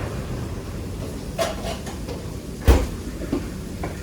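Kitchen work clatter over a steady low rumble: a few short knocks and one loud bang about two and a half seconds in.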